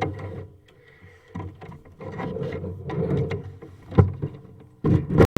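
Sewer inspection camera head and push rod scraping and bumping along the inside of a clay sewer pipe, with a sharp knock about four seconds in and another loud knock near the end.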